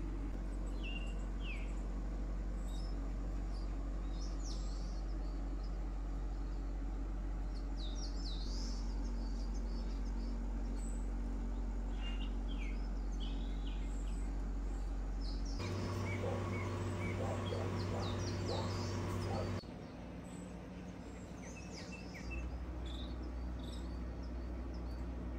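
Small birds chirping now and then, short high notes scattered throughout, over a steady low hum.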